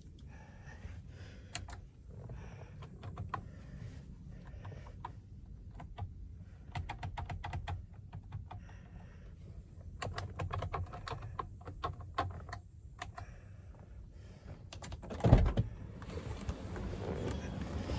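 Scattered light clicks over a faint low rumble, with one heavier thump about fifteen seconds in.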